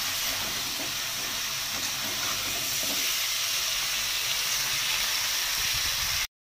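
Mutton pieces and onions sizzling in hot oil in an iron kadhai as they are stirred with a steel spatula: a steady frying hiss that cuts off abruptly near the end.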